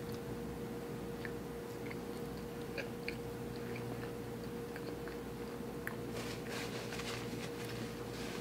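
A woman biting into and chewing a soft cream-filled blueberry cheesecake doughnut: quiet close-up chewing with scattered small mouth clicks, over a faint steady hum.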